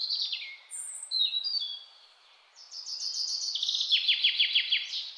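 Songbirds singing: a few short chirped phrases, then after a brief pause a long, fast trill of repeated down-slurred notes.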